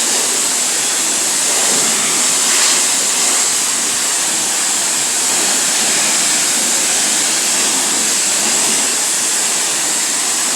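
Self-serve car wash high-pressure wand on the rinse setting, spraying water onto a car's body to wash off soap: a steady, loud, hissing spray without a break.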